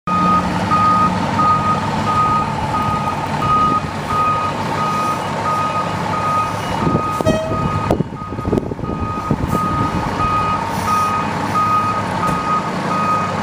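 Fire engine backing up: its reverse alarm beeps steadily over the running truck engine, with a few clunks about seven to nine seconds in.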